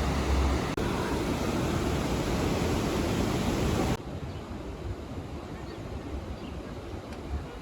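Steady rushing background noise with a low rumble, which cuts off abruptly about four seconds in to a quieter, airy outdoor background.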